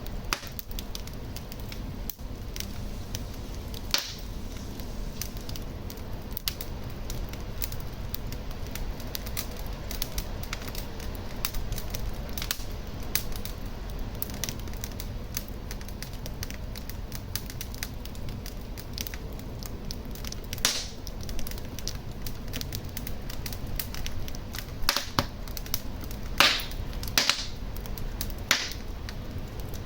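Fire burning in a fireplace: a steady low rumble of flame under constant small crackles, with a few sharper, louder pops, several of them near the end.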